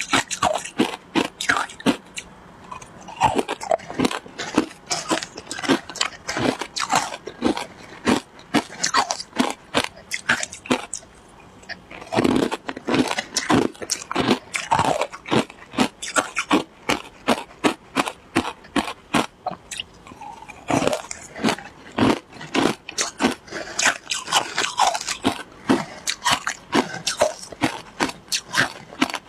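Shaved ice being bitten and chewed: a rapid run of crisp crunches, several a second, with a couple of short pauses.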